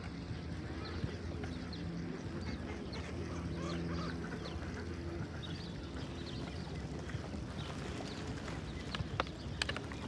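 A flock of ducks quacking and calling over and over, over a steady low motor hum. A few sharp clicks sound near the end.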